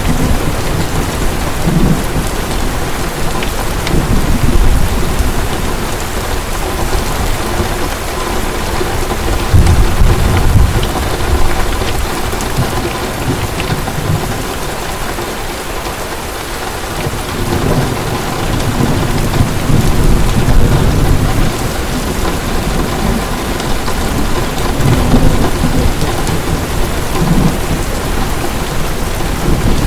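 Heavy rain falling steadily, with thunder rumbling again and again underneath, swelling loudest about ten seconds in and again past the middle.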